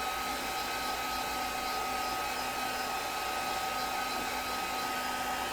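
Craft heat tool running steadily with an even blowing whir and a constant hum, drying wet paint and water on paper and trim.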